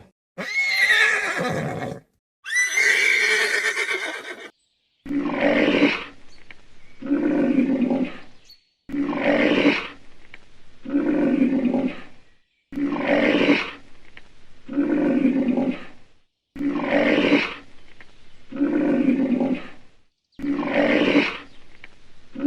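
An animal calling over and over: two longer calls with gliding pitch, then a run of about nine similar calls at even spacing, each lasting about a second and a half.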